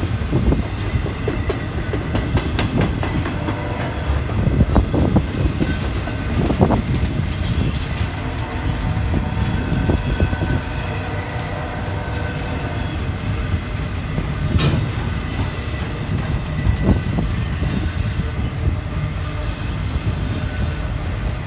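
A train passing with a steady rumble, its steel wheels clicking over the rail joints.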